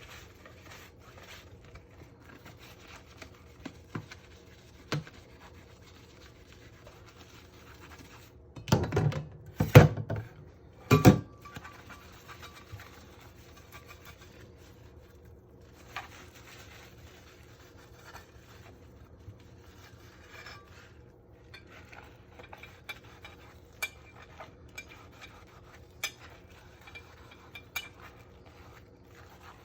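Dishes being washed by hand: soft scrubbing and rubbing with scattered clinks, and a short burst of loud clattering about nine to eleven seconds in.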